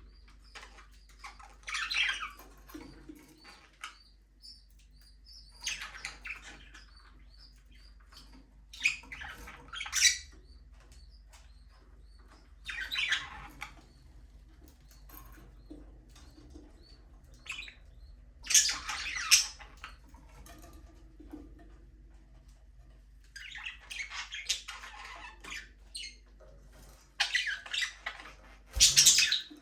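Budgerigars chirping and chattering in short bursts every few seconds, with quiet gaps between.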